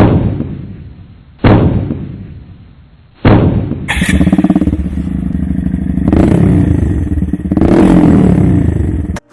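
Three heavy booming hits about a second and a half apart, each fading away, then a Honda Monkey125's single-cylinder engine running at idle through its exhaust, blipped up in revs twice, before cutting off suddenly.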